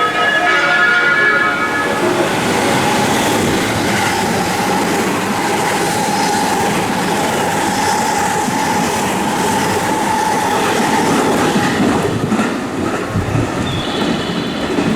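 A train passing through the station at speed: a horn plays a short run of changing notes as it arrives, then a steady rush of wheels and running gear with a held whine that breaks up about twelve seconds in as the train clears.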